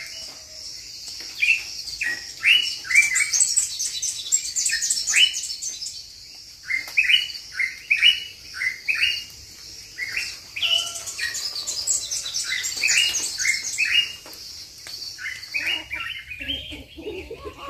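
Several wild birds singing: runs of short, repeated falling chirps, with a high rapid trill laid over them twice.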